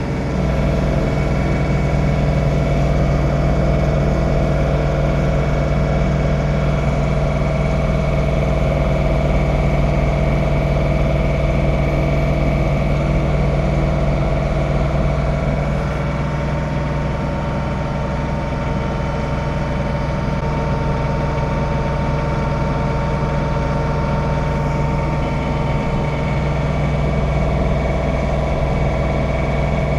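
John Deere 3046R compact tractor's diesel engine running steadily while it snow blows, with a small shift in its tone about halfway through.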